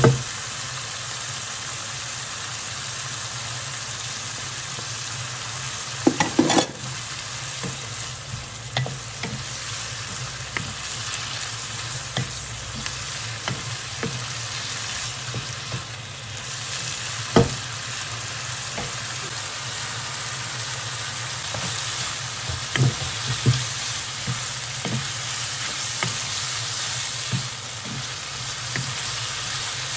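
Beef strips and shredded carrot sizzling steadily in a hot pan as a wooden spatula stirs them, with occasional knocks and scrapes of the spatula against the pan, a cluster of them about six seconds in.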